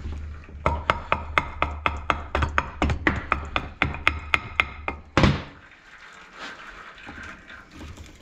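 Rapid metallic tapping on a gearbox, about five light knocks a second, then one heavy thunk about five seconds in as the part comes loose. Quieter handling noises follow.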